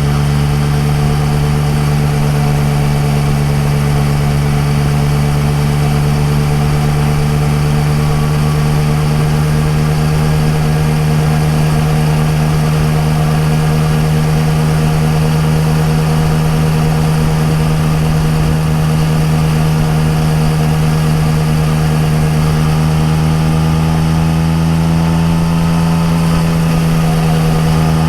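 Yamaha MT-09 Tracer's three-cylinder engine through an Akrapovic exhaust, running steadily at cruising speed, its note rising slightly near the end.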